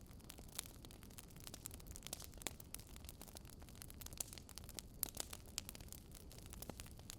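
Wood fire burning, with irregular sharp crackles and pops of the logs, several a second, over a low steady rumble.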